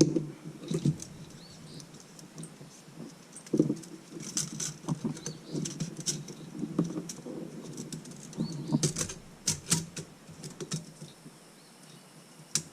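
Engine parts and a gasket being handled and fitted by hand: scattered light clicks, taps and rustling, with a few sharper metal clinks between about four and ten seconds in.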